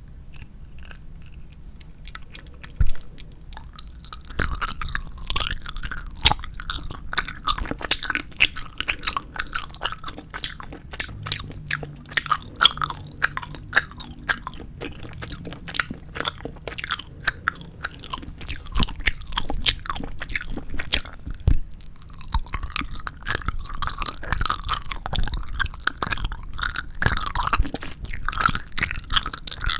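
Chewing and biting 4D jelly gummy candy: a dense run of wet clicks and crunches, sparser for the first couple of seconds.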